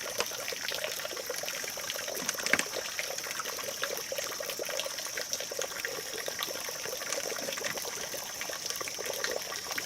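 Water trickling and splashing steadily, with a constant high hiss and many small ticks.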